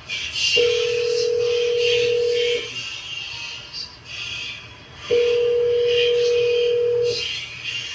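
Telephone ringback tone: two steady rings about two seconds each with a pause of about two and a half seconds between them, the sound of a call ringing unanswered before a voicemail system picks up. A steady background hiss runs beneath.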